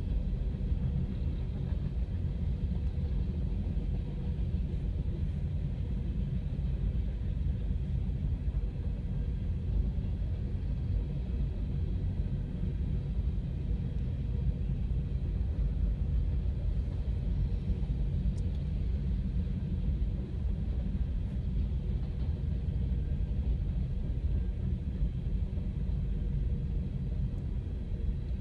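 Train passing over a road crossing: a steady low rumble that keeps on without a break, heard from inside a car.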